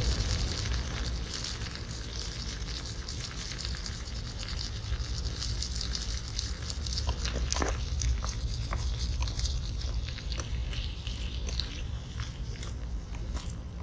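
Swedish meatballs and onions frying in a Trangia pan: a steady sizzling hiss thick with small crackles and pops, over a steady low rumble.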